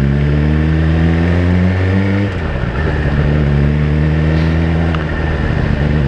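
Suzuki GSX-R1000's inline-four engine through a Yoshimura exhaust, rising in revs under acceleration. About two seconds in the pitch drops as a gear is changed, then the engine pulls on at a steadier pitch.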